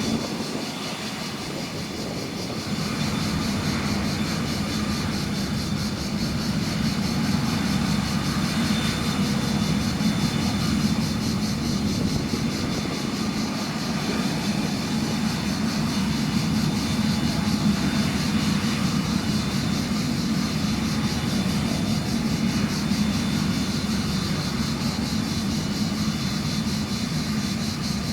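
The Cessna CitationJet CJ3 business jet's twin turbofan engines running steadily, heard from outside the aircraft. The sound is a little lower in the first two seconds, then holds even.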